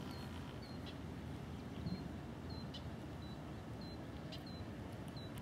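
Outdoor background of a steady low rumble, over which a small bird gives about eight short, high chirps, roughly every half second to a second.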